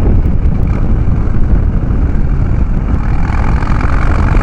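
Harley-Davidson Dyna Street Bob V-twin running at road speed under a heavy low rumble of riding wind, recorded on the rider's microphone. About three seconds in, a higher hum swells in over it.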